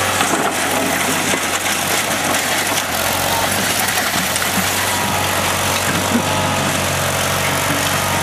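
Sears SS16 lawn tractor's 16 hp Onan twin-cylinder engine running steadily under way through a non-stock exhaust, a constant low drone with a broad rushing noise over it.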